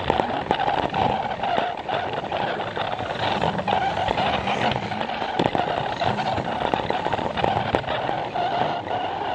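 Battery-powered Plarail toy train running on plastic track, heard from the camera car riding on it: a steady motor whir with many sharp clicks and clatter from the wheels over the track joints.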